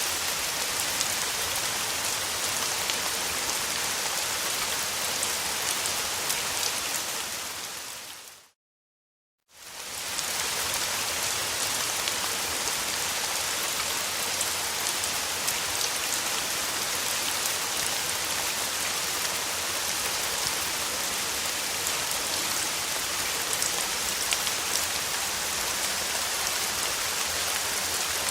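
Steady rain falling, with scattered sharp drop ticks. About eight seconds in it fades out to a second of silence and fades back in, like the join of a looped recording.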